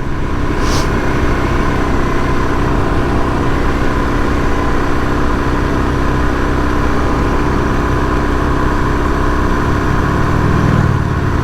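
Suzuki DRZ400S's single-cylinder four-stroke engine running steadily at cruising speed, heard from on the bike.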